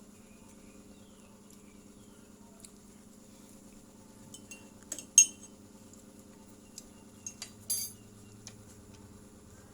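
Utensils clinking against dishes a few times, the sharpest clink about five seconds in and a short cluster of clinks near eight seconds, over a steady low hum.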